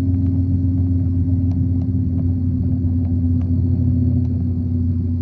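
Motorcycle engine running at a steady speed, a constant low drone that does not rise or fall, with a few faint ticks.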